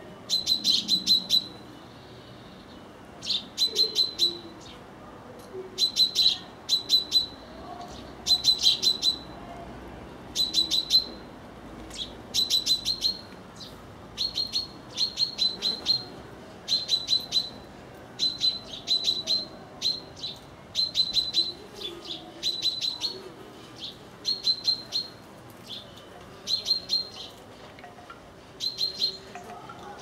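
Long-tailed tit calling over and over: quick bursts of three to six short, high notes, one burst every second or so.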